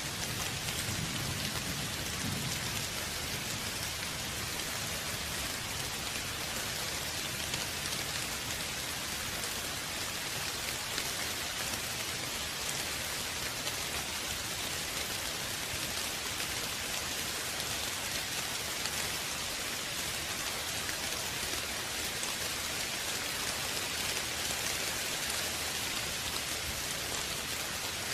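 Steady rain falling, an even hiss of drops on surfaces, with a brief low rumble in the first few seconds.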